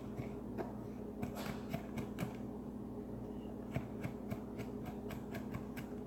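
Light, irregular knife taps on a cutting board, a few a second, as food is chopped, over a steady low hum.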